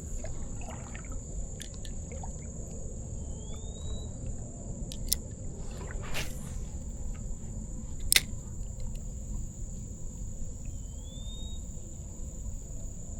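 Insects trilling steadily on one high note, with a short rising bird whistle twice and a few sharp clicks over a low rumble.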